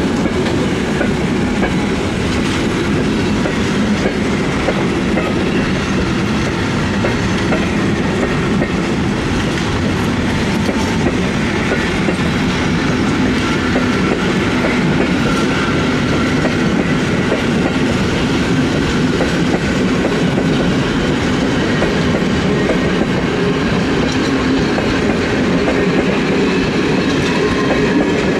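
A long train of passenger coaches rolling past, a steady rumble and rattle of steel wheels on the rails.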